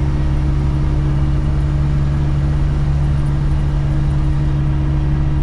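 In-cab drone of a 1972 Land Rover Series III's 2.5-litre petrol engine and drivetrain, cruising at a steady speed with road and wind noise. The engine runs evenly, with decent power and running well by the owner's account.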